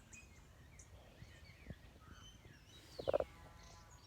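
Faint, scattered bird chirps and calls, including one falling whistle, with a brief louder sound about three seconds in.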